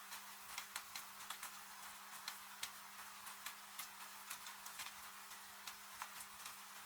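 Wood fire crackling, with irregular sharp pops and snaps, over a steady hiss of falling rain and a faint steady hum.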